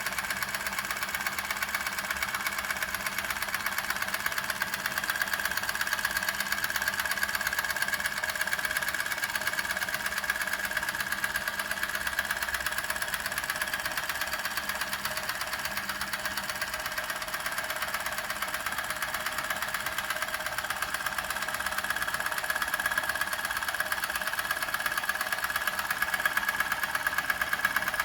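Doll 511/3 toy steam engine running steadily at speed: a fast, even mechanical clatter with a steady high tone through it.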